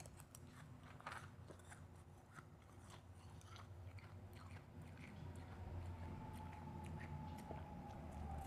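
Close-miked crunching and chewing of big bites of refrozen, powdery blended ice, in quick crisp crackles, the loudest about a second in. About halfway through, a faint steady high tone comes in underneath.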